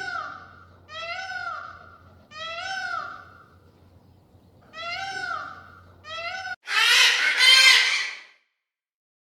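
A cat meowing five times, each meow a short call that rises and falls in pitch, over a low steady hum. Near the end a louder, harsher call from a different animal follows, in two parts.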